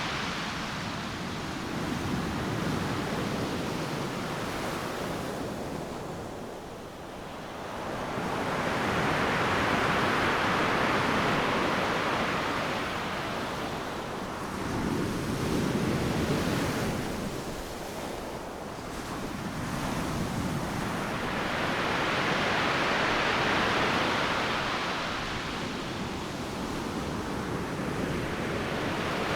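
Ocean surf breaking on a beach: a steady rushing wash of water that swells and ebs every six or seven seconds as each wave breaks and runs up the shore.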